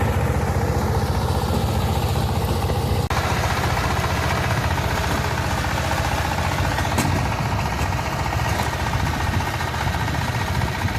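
Walking tractor's engine running steadily with an even low throb, with a momentary break about three seconds in.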